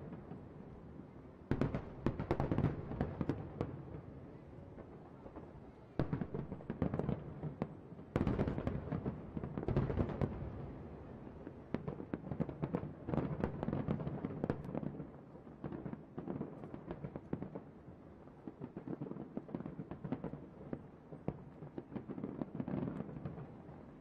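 Aerial fireworks shells bursting in rapid overlapping volleys, dense bangs and crackles. Fresh loud barrages start about a second and a half, six and eight seconds in, and the firing thins out a little towards the end.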